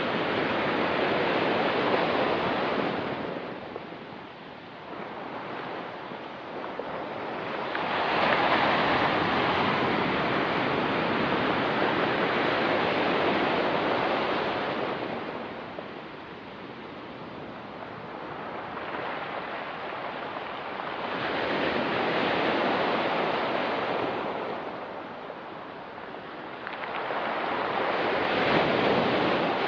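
Ocean surf on a rocky pebble beach: waves break and wash in, swelling and fading in long surges every six or seven seconds.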